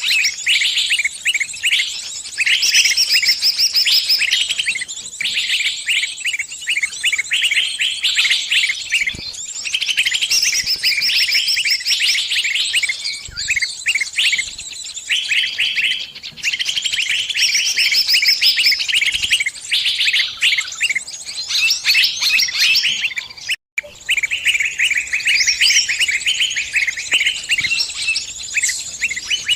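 Small songbird's distress calls: continuous rapid, high chirping of the kind a trapped bird gives when calling other birds for help. The chirping breaks off for a moment about two-thirds of the way through.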